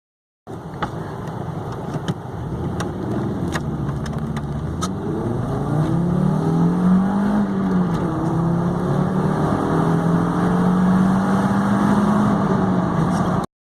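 Volkswagen Golf Mk4 petrol engine accelerating hard from a standstill, its pitch climbing through the revs and dropping back at gear changes, about two seconds into the run and again near the end. A few sharp clicks sound in the first five seconds.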